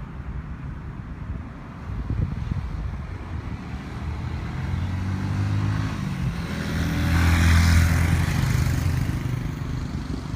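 A large-displacement (1000 cc) motorcycle passing by. Its engine note builds from about four seconds in, is loudest near the eighth second, then fades away.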